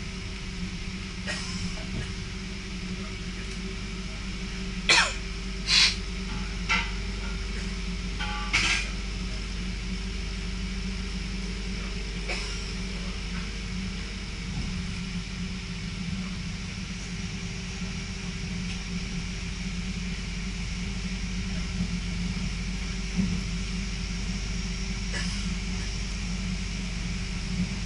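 Steady running noise inside a moving electric passenger train: a low hum and rumble with a faint steady tone above it. A few short sharp sounds come about five to nine seconds in.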